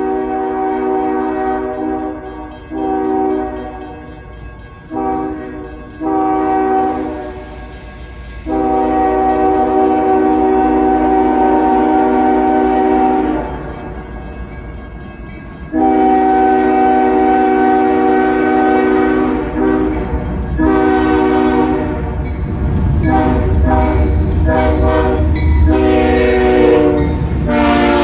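Diesel freight locomotive's multi-note air horn sounding a series of long and short blasts. In the second half the locomotives pass close, with a deep engine rumble and rattling wheels under more short horn blasts.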